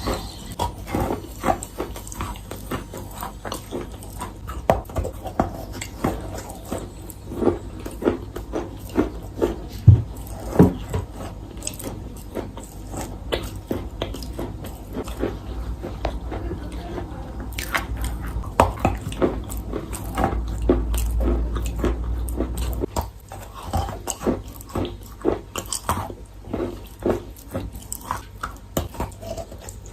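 Close-miked biting and chewing of wet chalk: repeated short crunches, about one or two a second, with the loudest bite about ten seconds in.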